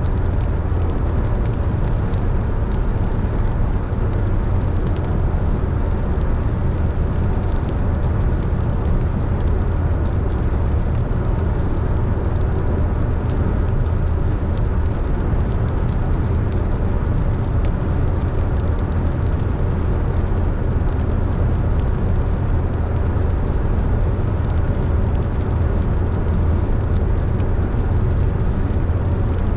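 Car driving at steady speed: an even road and engine noise with a low rumble, unchanging throughout.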